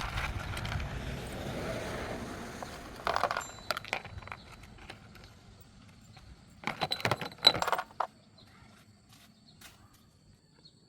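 Small metal parts and hand tools clinking and rattling in short bursts, about three seconds in and again around seven seconds, the loudest clink near the end of the second burst. A low rumbling noise runs under the first couple of seconds.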